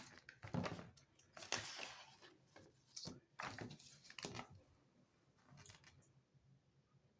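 Handling noises: a run of irregular rustles and short clicks as items are moved about, dying away about six seconds in.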